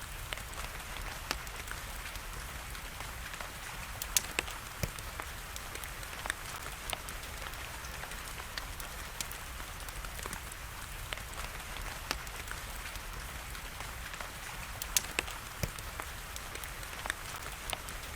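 Wood fire crackling, with sharp pops at irregular intervals, over a steady hiss of rain. The loudest pops come in a cluster about four seconds in and a pair near the end.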